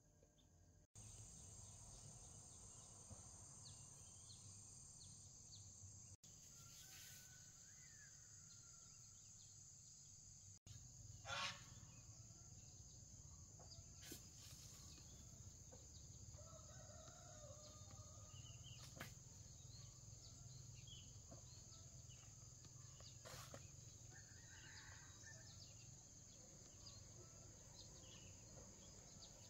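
Faint bird calls over a steady high hiss, with one short, louder call about eleven seconds in.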